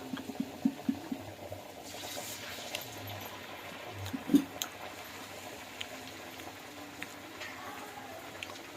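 Kitchen cooking sounds: a steady low hiss like liquid on the boil, a quick run of light taps in the first second, and one louder knock about four seconds in.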